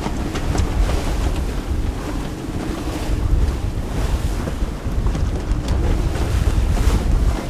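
Wind buffeting the microphone aboard a sailboat under way, over a steady low rumble and the wash of waves.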